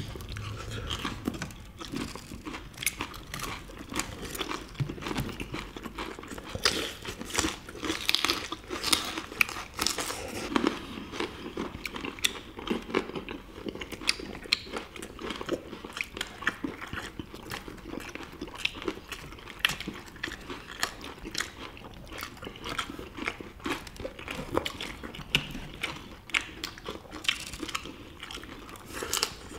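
Close-miked eating sounds from several people chewing and crunching food, including crisp battered tangsuyuk (Korean sweet and sour fried pork), heard as a steady run of small crunches and bite clicks.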